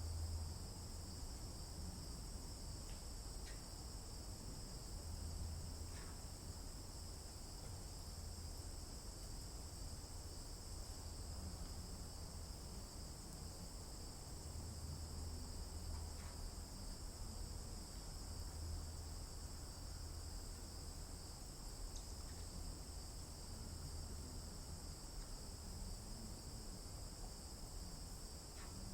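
Steady, high-pitched chorus of insects, typical of crickets, trilling without a break, with a few faint short chirps and irregular low thuds underneath.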